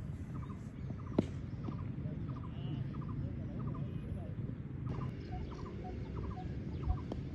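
A small bird's short chirps in quick threes, repeating about twice a second, over the low rumble of an open ground. A single sharp knock about a second in and a duller knock near the end are the cricket ball meeting bat or gloves.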